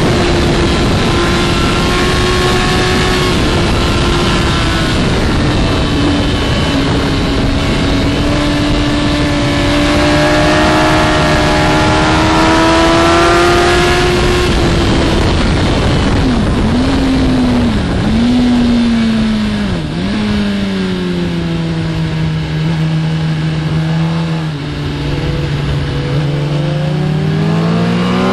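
Onboard sound of a sport bike's inline-four engine at racing speed over heavy wind rush. It is held at high revs on the straight, falls in three quick dips as it brakes and shifts down, and runs low and steady through the corner. The revs climb again near the end as it accelerates out.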